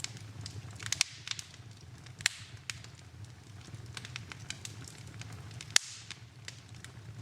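Wood fire in a fireplace crackling, with irregular sharp pops, the loudest a little before the end, over a steady low rumble.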